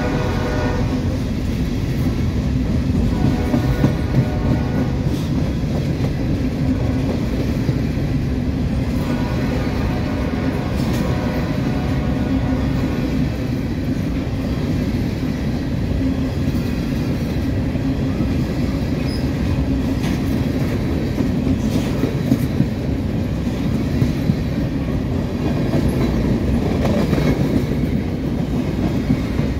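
Norfolk Southern freight train of covered hopper cars rolling past: a steady rumble of steel wheels on rail, with the clickety-clack of wheels over rail joints and a few sharper clacks.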